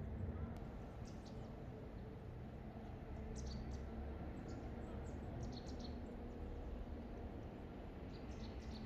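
Small birds giving short, high chirps in scattered clusters over a steady low engine rumble, which is the national park's snowplow at work.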